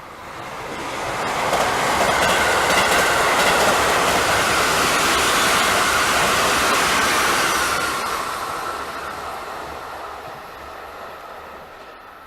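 Electric train on the JR Kyoto Line passing close by: the rail noise builds over about two seconds, stays loud for about six with a high whine running through it, then fades away.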